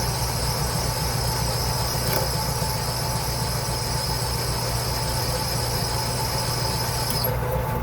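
Metal lathe running steadily while turning a bar of 304 stainless steel held between centres, a low hum with a high whine over it. The high whine drops out about seven seconds in.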